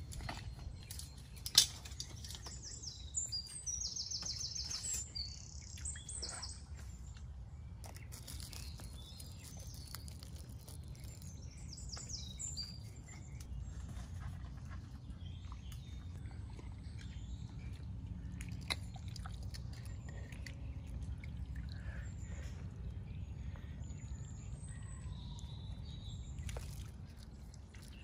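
Small birds calling in fast, high chirping trills, several near the start and a few more midway, with scattered sharp clicks and pops over a low steady rumble; one click, about a second and a half in, is the loudest sound.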